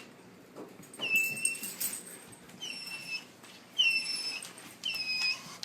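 Dog whining: a series of short, high-pitched whines, about one a second, each held briefly and tailing off slightly.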